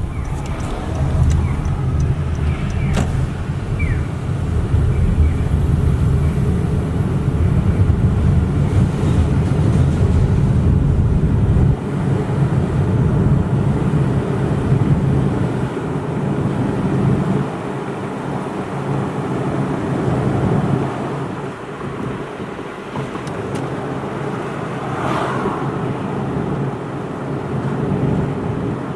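Car driving on city streets, heard from the camera mounted in the car: a steady low rumble of road and engine noise, heavier for the first dozen seconds and lighter after.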